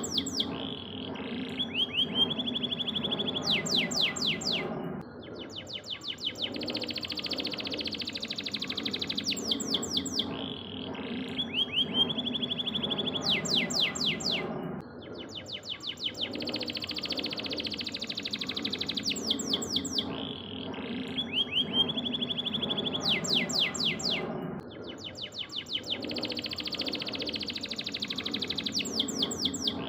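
Domestic canary singing: fast trills and held whistled notes, over a steady low background noise. The same phrase sequence repeats about every ten seconds, as a looped tutor recording for teaching songbirds.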